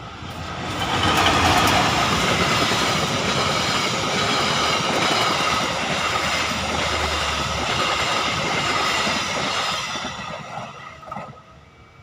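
A train passing close by. Its wheel and rail noise rises over the first second and a half, holds loud and steady for about eight seconds, then fades away near the end.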